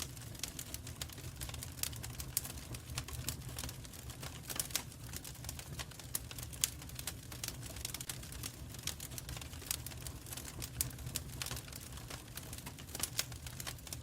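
Wood fire in a fireplace crackling: a steady stream of irregular sharp pops and snaps over a low steady rumble.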